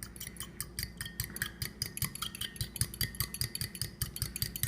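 Fork beating eggs and milk in a glass jar: rapid clinking of metal tines against the glass, several strikes a second.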